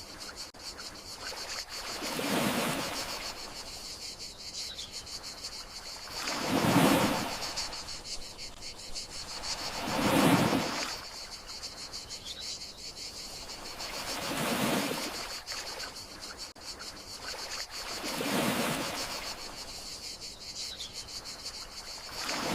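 Gentle sea waves washing onto the shore about every four seconds, each one swelling and fading away, over a steady high chirping of crickets.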